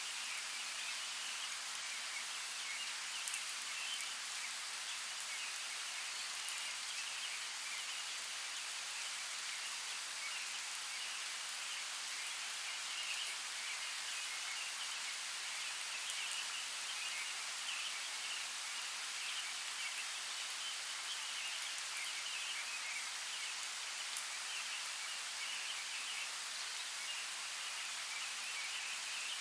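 Steady rain in a forest: an even hiss with scattered louder drops tapping now and then.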